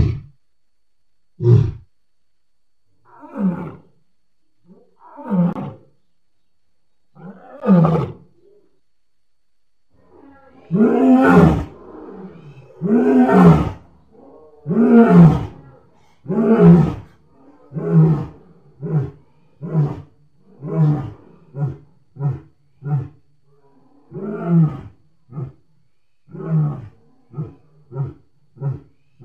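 A lion's roaring bout: a few quieter moaning calls about two seconds apart, then several long, loud full roars, trailing off into a run of shorter grunts that come about once a second and slightly quicker toward the end.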